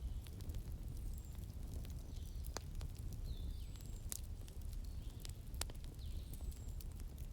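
Wood fire crackling, with sharp irregular pops over a steady low rumble. A bird gives short, high, falling chirps again and again alongside it.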